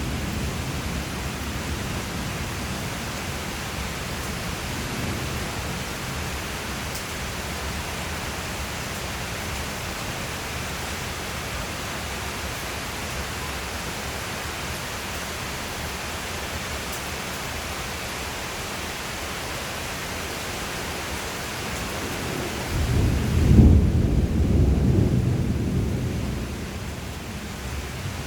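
Steady rain with low thunder rumbling underneath. Near the end a louder roll of thunder builds, rumbles for about four seconds and fades.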